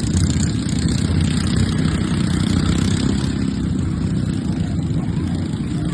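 Stock racing riding lawnmower engines running steadily.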